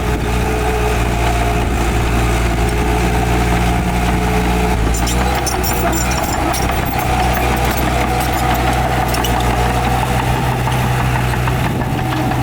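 Heavy diesel earthmoving engine running steadily, its pitch shifting a little about five seconds in, with scattered metallic clinks and rattles around the middle and near the end.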